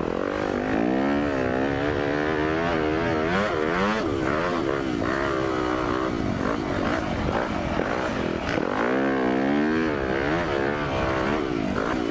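Dirt bike engine, a Yamaha YZ250F four-stroke single, revving up and down repeatedly while being ridden slowly in circles with the clutch slipped, the pitch rising and falling every second or two.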